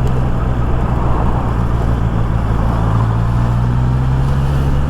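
Honda CB650R's inline-four engine running at a steady speed while riding, with wind and road noise, heard through a microphone inside the rider's helmet.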